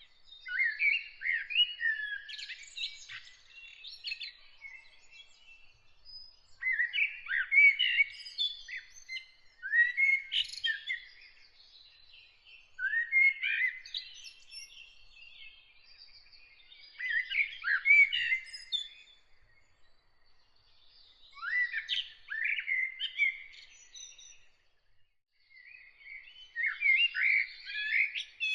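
A songbird singing short, varied phrases, about eight of them, each a second or two long, with brief pauses in between.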